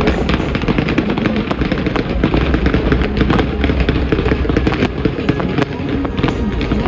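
Fireworks going off in a rapid, dense barrage of bangs and crackles over a steady low rumble.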